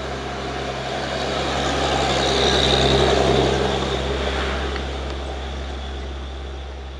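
A truck passing close by on the road: engine and tyre noise swell to a peak about three seconds in, then fade, over a steady low engine hum.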